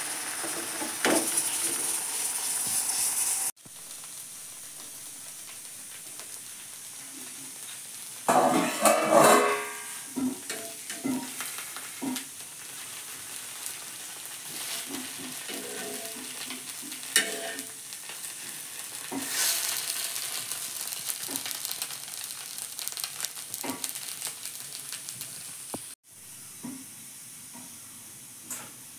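Thin ragi neer dosa batter sizzling on a hot non-stick dosa pan. The sizzle is loudest for the first few seconds, then drops suddenly to a softer hiss. A louder burst of scraping and handling noise comes about eight seconds in.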